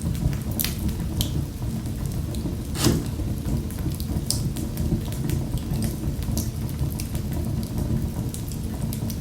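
Wood fire in a fireplace crackling and popping over a low steady rumble, with one louder pop about three seconds in.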